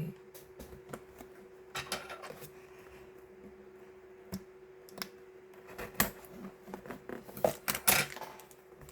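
Light scattered clicks, taps and scrapes of a boxed fountain-pen starter kit being handled and shifted about on a table, busier toward the end, over a faint steady hum.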